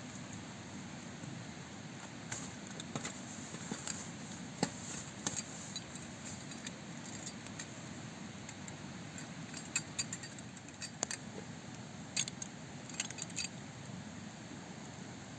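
Irregular light clicks and clinks, a few louder ones in small clusters, over a steady hiss.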